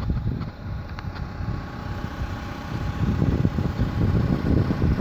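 A 2013 Chevrolet Malibu running, with wind rumbling on the microphone and a few faint clicks in the first second or so, from a car whose owner is chasing a ticking noise.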